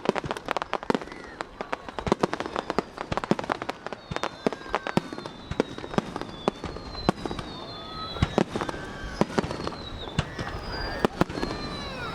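Fireworks display: aerial shells bursting in a rapid, irregular string of sharp bangs and crackles, densest in the first few seconds. Thin whistling tones slide slowly down in pitch through the middle and again near the end.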